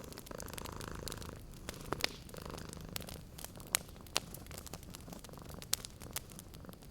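Cat purring steadily and close, with a wood fire crackling and popping in sharp scattered snaps, the loudest a little under four seconds in.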